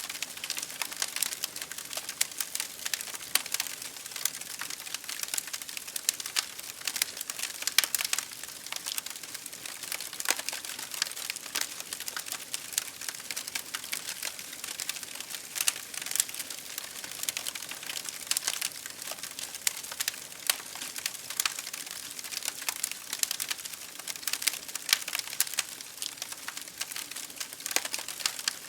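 Wood fire crackling in a fireplace: dense, irregular snaps and pops over a steady high hiss of rain against a window pane.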